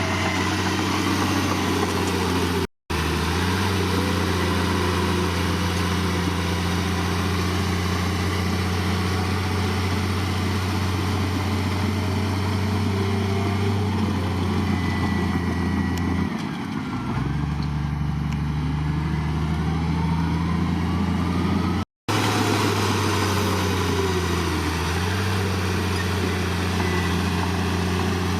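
Heavy diesel engine of earth-moving equipment running steadily with a deep, even hum. Just past halfway the engine note dips and shifts, and the sound cuts out completely for an instant twice.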